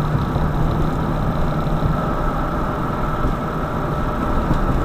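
A car's engine running with a steady, even drone and road noise.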